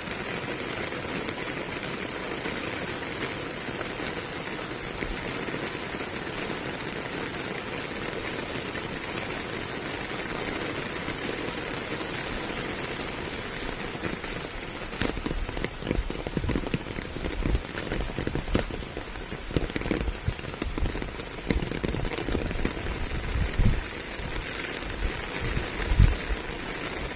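Steady rain falling, an even hiss throughout. From about halfway on, irregular low thumps come through, the loudest near the end.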